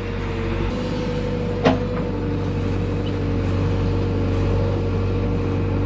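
Tractor diesel engine running steadily, with one sharp knock about a second and a half in.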